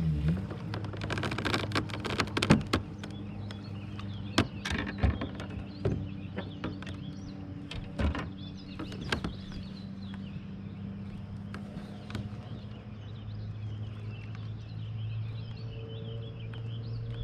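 A steady low hum runs throughout, with many sharp clicks and knocks in the first half; birds chirp in the background in the second half.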